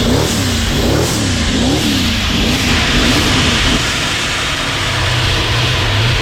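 A car engine revved up and down over and over in quick, even blips, its pitch rising and falling about twice a second. After about four seconds it settles into a steady low running note.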